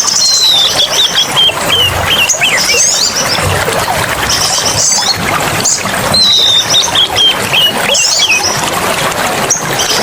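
Several songbirds calling over a steady rushing of water: repeated downward-sliding whistles and fast high chattering trills, coming in phrases every second or two.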